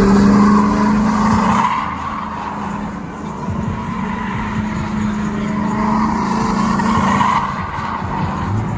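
A car's engine held at steady revs with its tires squealing, loudest near the start and again about six to seven seconds in.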